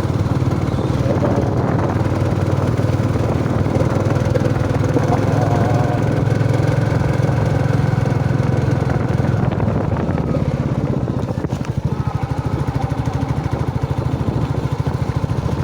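Royal Enfield Bullet motorcycle's single-cylinder engine running steadily under way, heard from the rider's seat; the throttle eases off about eleven seconds in and the engine note drops a little.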